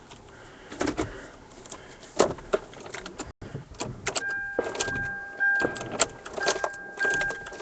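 Car cabin sounds: scattered clicks and knocks, then from about four seconds in a steady electronic warning tone from the car, sounding in stretches of about a second with short gaps.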